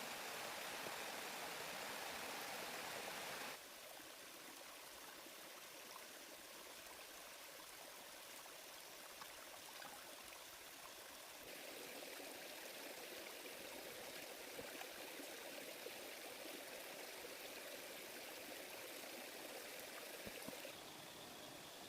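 Faint, steady rushing of flowing water, like a stream. Its level drops abruptly about three and a half seconds in, rises again around eleven seconds and drops again near the end.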